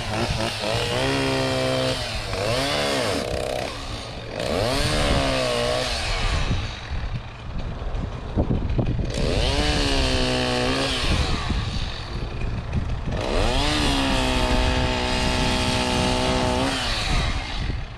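Two-stroke chainsaw revved up to full throttle four times, each rev held for one to three seconds before dropping back to idle.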